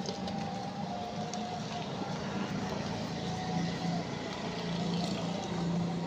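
A steady low motor-like hum that pulses slightly, with a few faint clicks over it.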